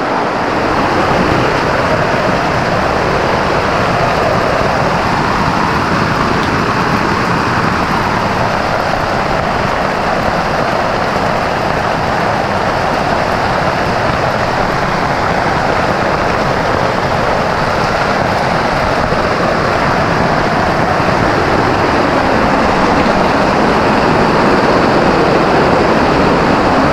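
Very heavy rain pelting a tent, heard from inside as a loud, steady, even rush of noise.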